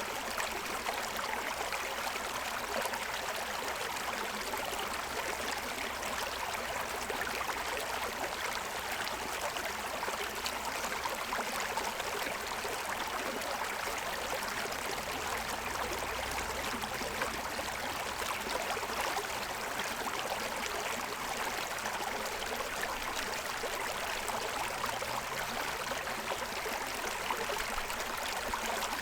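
Forest stream running over the stones of its bed: steady, even splashing and gurgling water.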